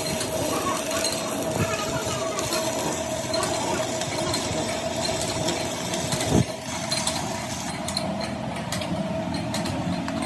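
Workshop machinery running with a steady hum, with a single sharp knock about six seconds in.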